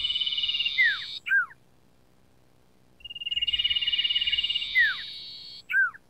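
Common iora (sirtu, cipoh) singing two phrases about three seconds apart. Each phrase is a rapid trill of notes over a buzzy rattle and ends in two short, quick downward-sliding whistles.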